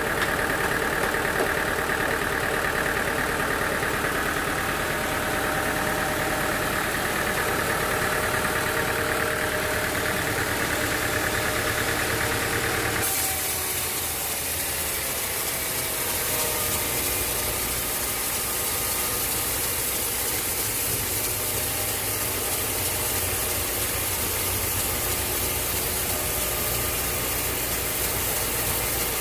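Engine-driven sawmill machinery running steadily. About thirteen seconds in, the sound changes abruptly to a thinner, hissier running sound.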